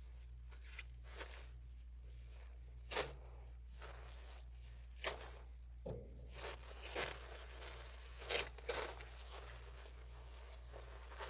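Tape being cut and peeled off the end of an air duct, with the plastic duct crinkling as it is handled: irregular tearing and rustling, with sharper rips about three, five and eight seconds in.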